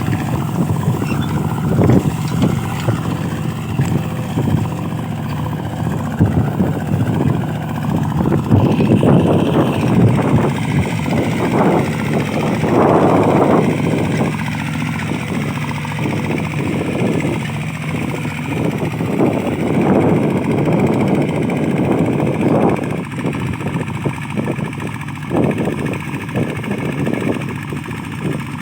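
Mini tractor engine running steadily under plowing work, with uneven surges in its sound.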